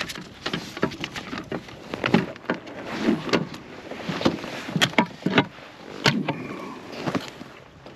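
A hooked fish thrashing and splashing at the surface beside a fishing kayak, giving a run of irregular splashes and knocks, several a second.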